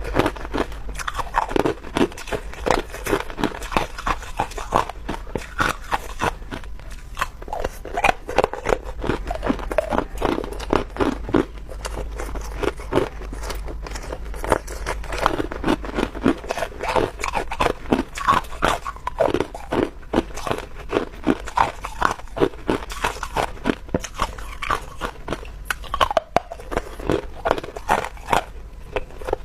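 A person biting and chewing chunks of clear ice close to the microphone: a dense run of sharp, irregular crunches and cracks, several a second.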